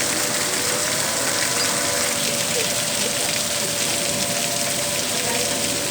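Hail and heavy rain pelting a vehicle in a hail storm: a dense, steady clatter of many small hits, with a steady hum underneath.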